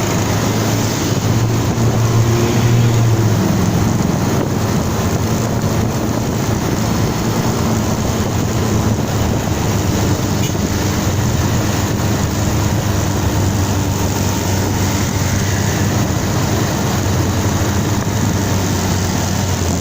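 Motorcycle being ridden at a steady pace: its engine runs with a low steady hum under a constant rushing noise, swelling slightly about two seconds in.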